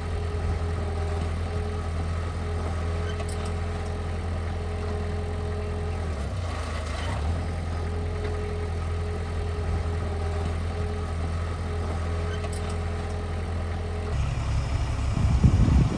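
Heavy machine's diesel engine running steadily with a low hum. A little before the end the engine note changes and grows louder and rougher.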